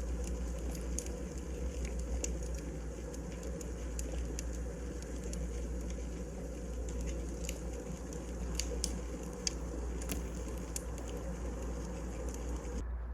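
Wood fire crackling: a steady hiss with scattered sharp pops, which cuts off suddenly near the end, leaving a low steady hum.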